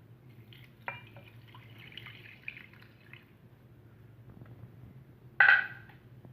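Water poured from a mug into a bowl of crushed instant noodles: faint pouring and dripping, with a click about a second in and a brief louder sound near the end.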